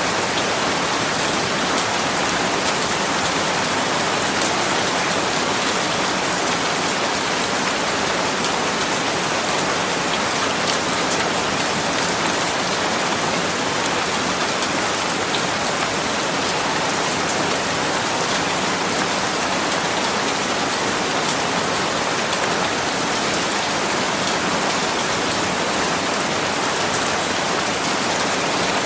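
Steady rain falling on a surface, a dense even hiss with fine drop ticks.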